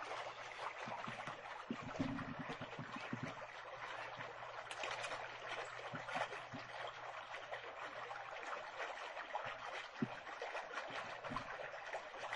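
Running water, a steady trickling and babbling stream sound with small splashes throughout.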